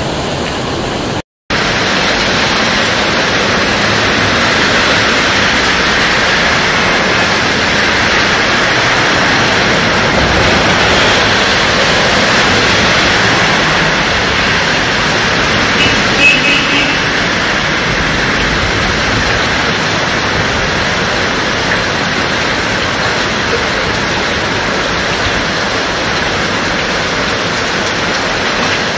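Heavy rain falling steadily, a dense even hiss. The sound drops out for an instant just over a second in, and a brief high-pitched chirp sounds about halfway through.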